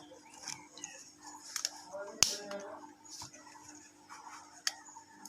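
Scattered small clicks and taps of hand tools working on an opened mobile phone, the sharpest about two seconds in, over a faint steady hum.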